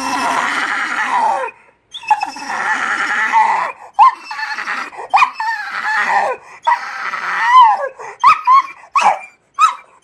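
Pit bull "talking": several long, drawn-out vocal bouts that rise and fall in pitch, then a string of short, high whiny calls near the end.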